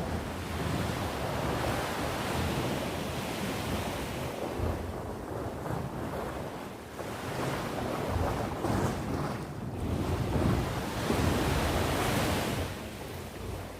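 Ocean waves breaking and washing on the shore, swelling and ebbing every few seconds, with wind buffeting the microphone.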